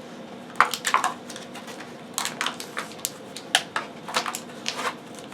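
Plastic toy packaging crackling and clicking as it is squeezed and pried at by hand, in an irregular run of sharp crinkles.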